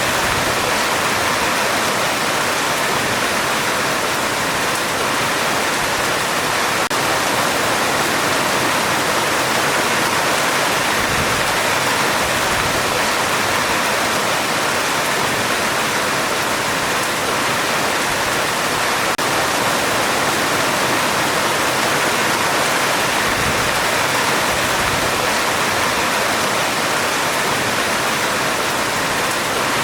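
Heavy rain falling on a metal roof: a steady, dense hiss.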